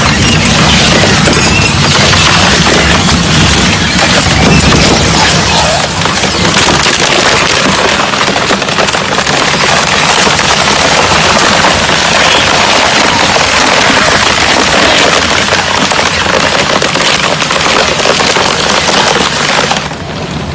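Industrial shredder tearing up a refrigerator: dense, continuous cracking and crunching of metal and plastic.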